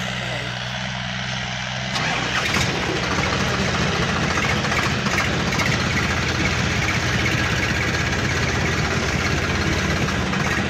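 Diesel tractor engine running steadily. About two seconds in it turns louder and rougher, and then it keeps running at that higher level.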